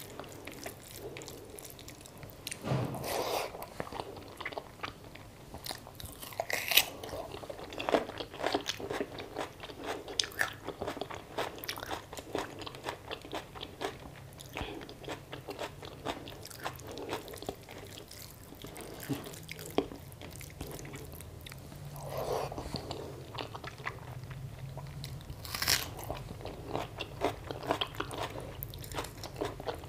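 Close-miked chewing of a mouthful of rice and curry, with soft wet clicks throughout and two sharper crunches, about 7 seconds in and near the end.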